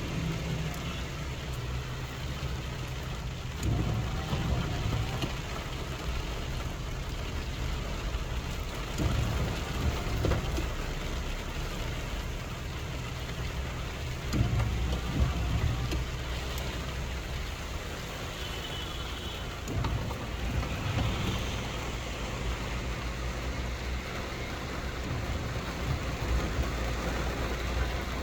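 Heavy rain falling steadily, over a low hum that swells louder several times.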